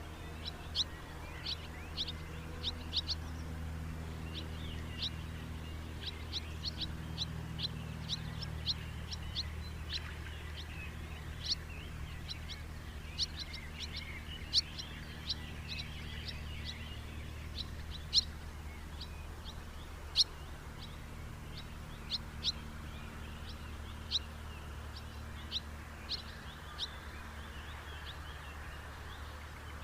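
House martins calling: many short, sharp chirps in quick, irregular succession, over a steady low hum.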